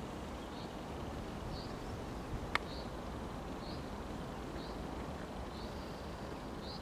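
A bird repeating a short, high call about once a second over steady low outdoor background noise. One sharp click comes about two and a half seconds in.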